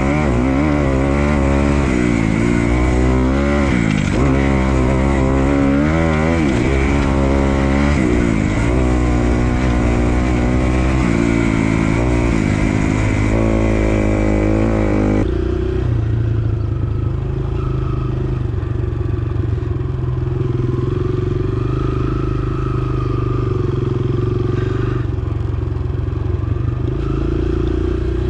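Dirt bike engine revving up and falling back over and over as it is ridden round a motocross track. About halfway through, the sound changes abruptly to a steadier, lower engine note.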